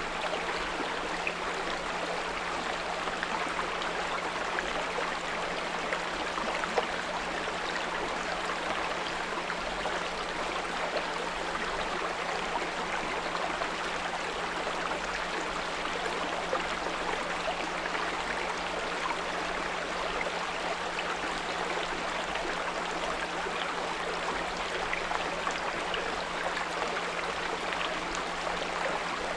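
A small brook babbling and trickling steadily, with a steady low 174 Hz pure tone held underneath.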